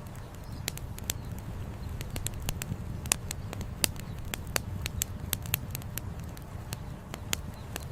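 Campfire wood crackling, with irregular sharp pops several times a second, the loudest a little past three seconds in and near four seconds. Underneath runs a steady low rush of the flowing river.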